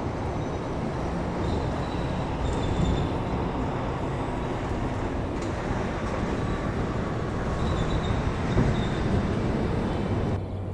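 A train running steadily past with a low rumble, faint thin squeals on top; the sound drops away abruptly near the end.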